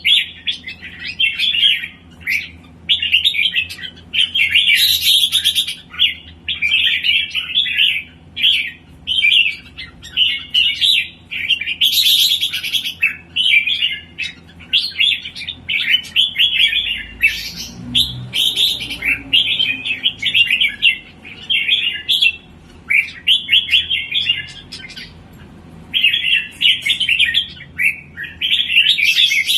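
A songbird singing continuously in fast, chattering phrases of about a second each, separated by short pauses, some phrases rising into very high notes. It is a keeper's bird in full song, 'naik form' in the Malay bird-keeping sense.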